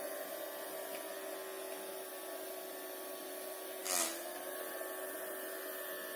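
Small battery-powered motor spinning the fan of a homemade water-bottle vacuum cleaner, running with a steady whine. About four seconds in there is a brief rushing burst, and the motor's pitch dips for a moment.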